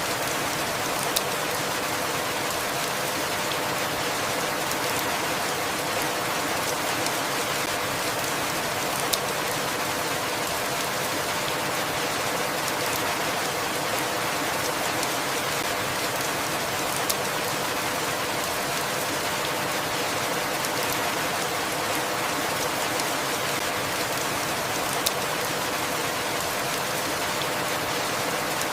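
Steady, even rainfall, with a sharp single drop or drip standing out four times, about every eight seconds.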